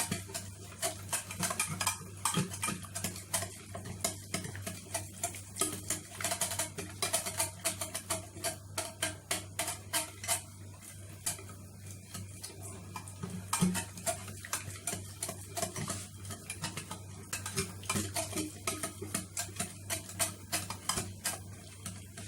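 A utensil stirring a thick yogurt-and-spice marinade in a glass Pyrex dish: quick, irregular clinks and scrapes against the glass, several a second, with no break.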